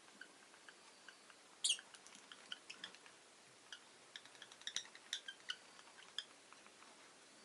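Rosy-faced lovebirds giving short, scattered high chirps and clicks, with one louder sharp call about a second and a half in and a quick cluster of chirps near the middle.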